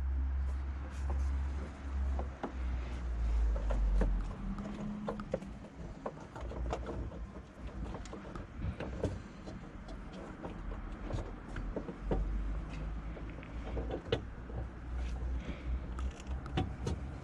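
Scattered clicks and knocks of hands working on a car's headlight assembly, over a low rumble that is strongest in the first few seconds.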